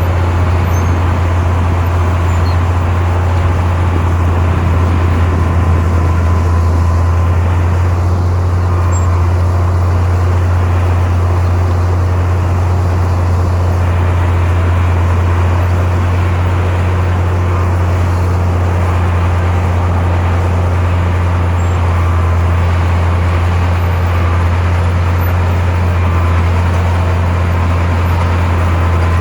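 Komatsu bulldozer's diesel engine running steadily at constant load, a loud, even low drone that does not rise or fall.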